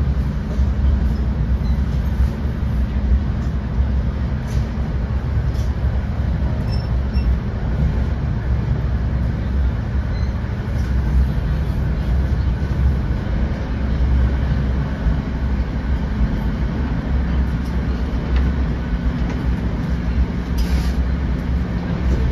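Steady ride noise inside an NJ Transit Comet II/IV passenger coach running at speed: the low rumble of wheels on rail and the hiss of the car body, with a few faint clicks and a brief hiss near the end.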